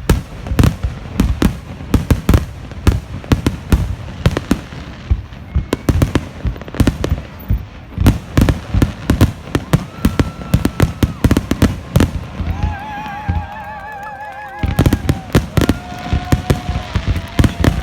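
Fireworks going off in quick succession: a dense run of sharp bangs and crackles, with a brief lull about three-quarters through. Around the middle a warbling whistle wavers up and down for a couple of seconds over the bangs.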